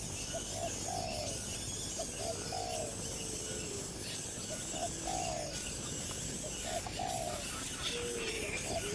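A dove cooing: a repeated phrase of two short notes and a longer falling note, heard about four times, roughly every two seconds. A second, lower drawn-out call comes in twice.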